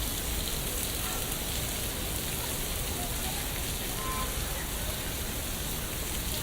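Steady hiss of rain falling, an even wash of sound without distinct events.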